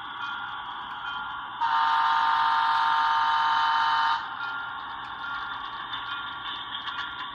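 Sound decoder of an HO scale Proto 2000 H10-44 model diesel locomotive, playing its diesel running sound through the model's small speaker. About a second and a half in it blows one horn blast of several steady tones, lasting about two and a half seconds and stopping abruptly.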